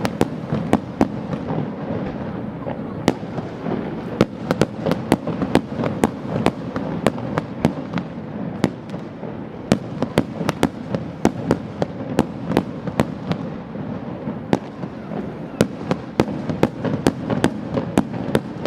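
Fireworks going off in a rapid, irregular barrage of sharp bangs, several a second, over a continuous din of noise.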